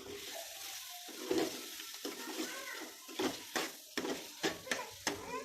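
Chicken sizzling in a karahi as it is stirred, with a metal spoon knocking and scraping against the pan several times in quick succession in the second half.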